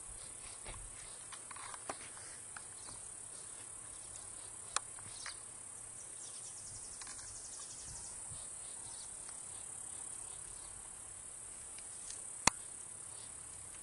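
A steady, high-pitched chorus of trilling insects such as crickets. A few sharp clicks cut through it, the loudest near the end.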